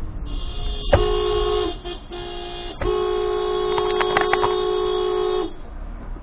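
Car horn sounding in three blasts, two short and one long, with a sharp knock about a second in and a few clicks during the long blast.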